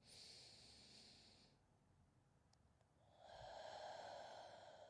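A person breathing softly: one hissing breath in, then about three seconds in a longer, fuller breath out.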